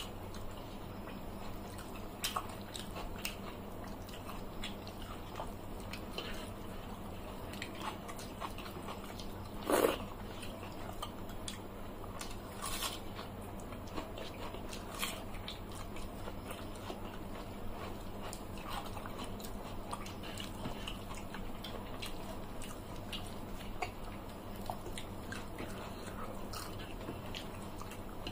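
Close-up eating sounds of two people eating watered rice and fried fish by hand: soft chewing, biting and small wet mouth and finger sounds, scattered and irregular, over a steady low hum. One louder short noise stands out about ten seconds in.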